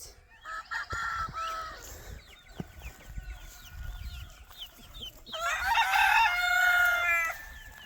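A rooster crowing: a shorter call early on and a longer, louder crow of about two seconds near the end, with faint small-bird chirps in between.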